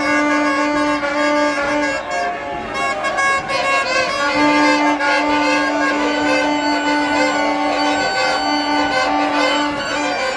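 Trumpets blowing long held notes, breaking off about two seconds in and sounding again, over the dense noise of a large crowd.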